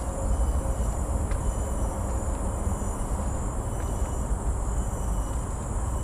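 Outdoor ambience: a steady low rumble with a constant high-pitched insect drone above it and a few faint clicks.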